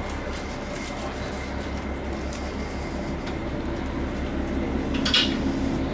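Diesel railcar of the Sakai Line's Nezumi-Otoko train running with a steady low rumble and hum, with one brief sharp noise about five seconds in.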